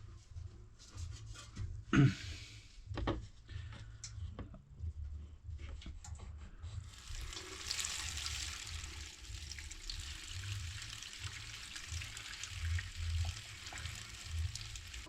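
Old petrol pouring out of a small engine's fuel tank into a container: a few knocks and clicks of handling, then from about seven seconds in a steady splashing pour.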